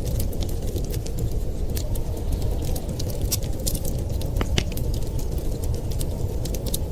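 Wood fire crackling in a fireplace, with frequent irregular sharp pops and snaps over a steady low rumble of blizzard wind.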